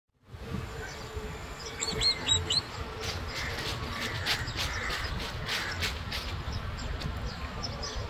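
Songbirds chirping: a quick run of four sharp high chirps about two seconds in, the loudest part, followed by scattered shorter chirps, over a steady low background rumble.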